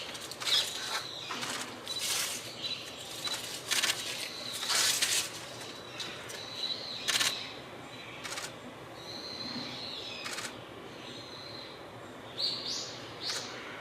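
Azure-winged magpies giving short, harsh calls again and again at irregular intervals, some in quick pairs near the end, over a steady thin high tone.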